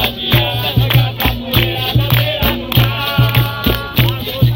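Capoeira roda music played live: berimbau and percussion with a caxixi rattle shaken in a steady rhythm, under voices singing.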